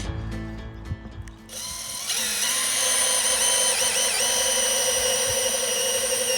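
Power drill spinning at a steady speed, starting about a second and a half in after background music fades out; it is drilling out a hole in a plastic bucket for a water fitting.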